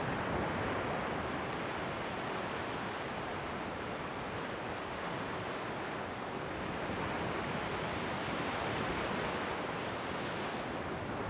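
Ocean waves breaking and washing on the shore, a steady rush of surf that swells gently and eases, with a little wind on the microphone.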